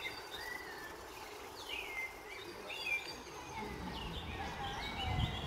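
Several birds chirping and singing, with a low rumble swelling near the end.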